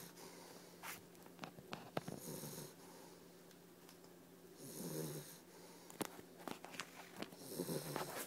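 Labrador puppy snoring in its sleep: a snore roughly every two and a half to three seconds, three of them, each a low rasp with a hiss of breath, with a few sharp clicks between.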